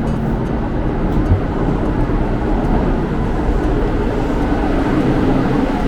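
Kintetsu Aoniyoshi limited-express train running, heard inside the passenger car: a steady rumble of wheels and motors on the track with a faint steady hum.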